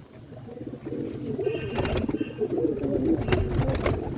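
Several domestic pigeons cooing over one another in their loft, with a few sharp taps about three seconds in.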